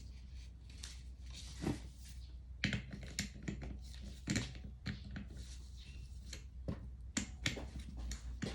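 Scattered light clicks and knocks of tools and small metal parts being handled on a Honda Dax engine, about eight in all at uneven intervals, over a steady low hum.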